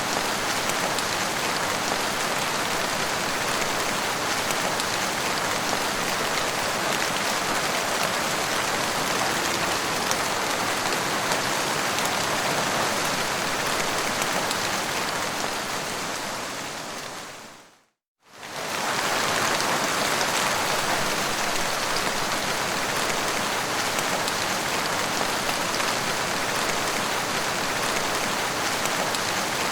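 Steady rain falling, an even hiss of drops. About two-thirds of the way through it fades out over a few seconds to a brief moment of silence, then comes straight back at full level.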